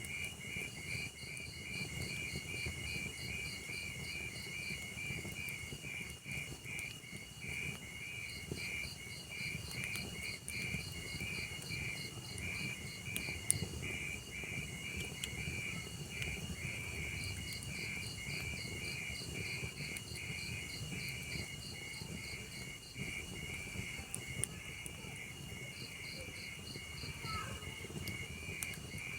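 Crickets chirping in a steady, rapid pulsed trill, with a second, higher trill that starts and stops several times, over the low rush and scattered faint crackles of a wood fire.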